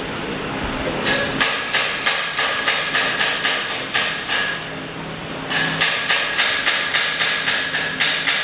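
A hammer striking metal over and over, about three ringing blows a second, in two runs with a pause of about a second and a half between them.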